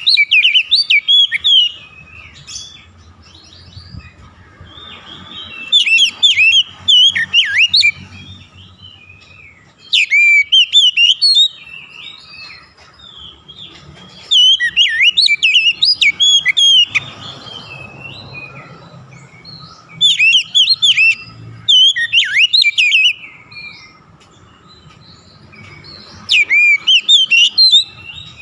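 Oriental magpie-robin (kacer) singing: bursts of rapid, varied whistled phrases lasting a second or three, about every four seconds, with short pauses between.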